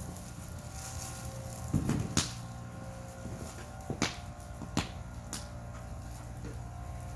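Outdoor wood fire burning with a steady low rumble, broken by a few sharp cracks and knocks: a cluster about two seconds in, then single ones at about four and five seconds.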